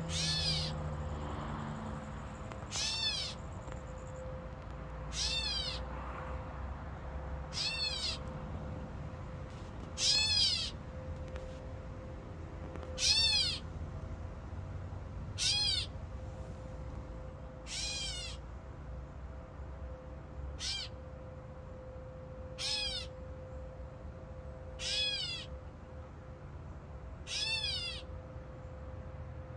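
Catbird giving its cat-like mewing call: a short wail that rises and then falls, repeated about every two and a half seconds, twelve times.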